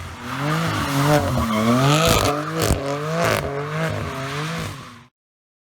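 BMW F82 M4's S55 twin-turbo inline-six running through a straight-through aftermarket exhaust, its note rising and falling with three sharp cracks in the middle, then cutting off abruptly about five seconds in.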